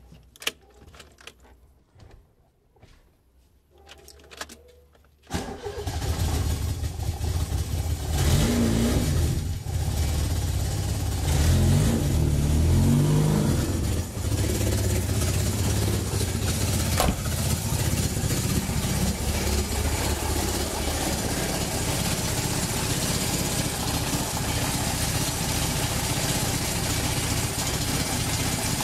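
A car engine starts suddenly about five seconds in, after a few faint clicks. It is revved several times with the accelerator pedal, then settles into a steady idle.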